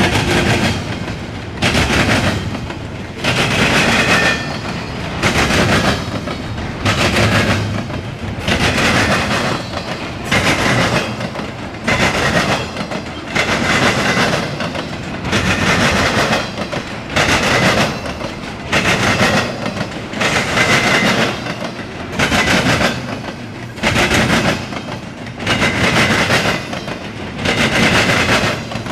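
Eastbound intermodal freight train rolling past, its wheels clattering on the rails. A loud swell comes in a steady beat about every second and a half to two seconds as each car's wheel sets go by.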